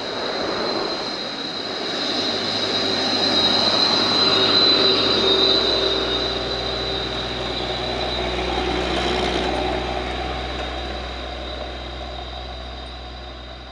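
A Mitsubishi Fuso box truck passing close by: engine and tyre noise swells to a peak about four seconds in and then fades, with a steady high whine over it. A deep engine rumble builds in the second half as another heavy truck comes near.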